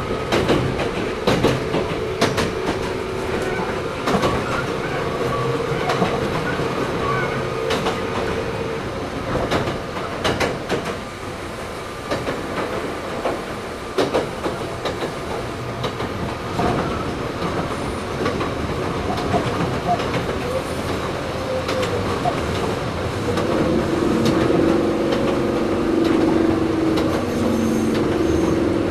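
Inside a Toyohashi Railway 1800 series (ex-Tokyu 7200 series) resistance-controlled electric car running along the line: steady wheel and track rumble with repeated clicks from the rail joints. Passenger voices are faintly mixed in.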